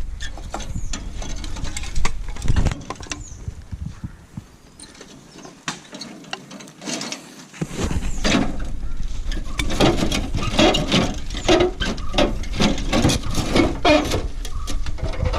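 Irregular metallic clicks and clanks, as of tools and parts being handled, getting busier about halfway through over a low rumble of handling noise.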